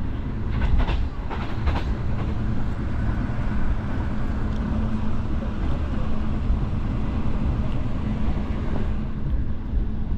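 Green Line Express passenger train running on the rails: a steady heavy rumble, with a quick run of wheel clacks over the rail joints about a second in.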